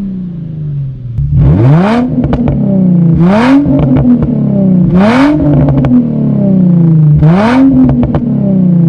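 2004 Infiniti G35's 3.5-litre V6 with a muffler delete, free-revved four times: each rev climbs quickly with a loud raspy exhaust note and falls back to idle. Short pops and crackles come from the exhaust as the revs drop.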